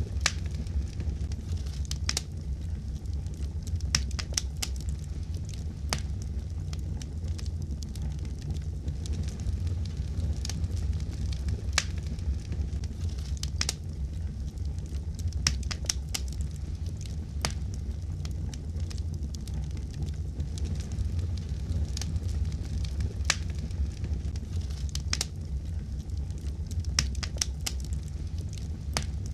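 Fireplace fire crackling: a steady low rumble of burning with irregular sharp pops and snaps, roughly one a second.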